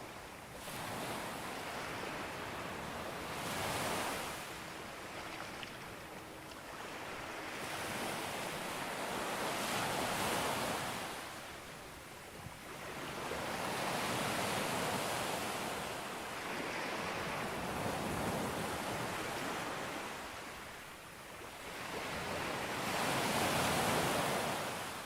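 Sea waves breaking and washing up on a beach, the surf noise swelling and fading in about five surges, one every four to six seconds.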